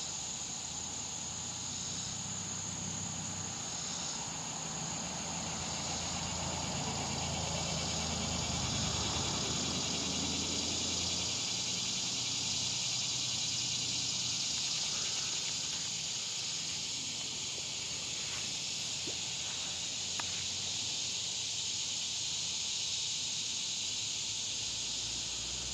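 Chorus of summer insects making a steady high-pitched drone, with a low rumble underneath that eases off after about twelve seconds.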